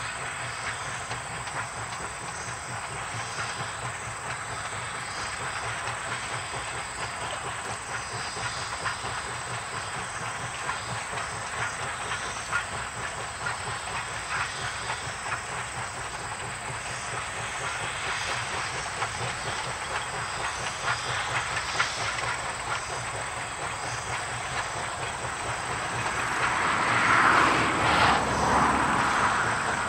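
East Broad Top narrow-gauge steam train running on the mainline: steady rolling noise and hiss, with wheels clicking over the rail joints. The sound grows louder for a few seconds near the end.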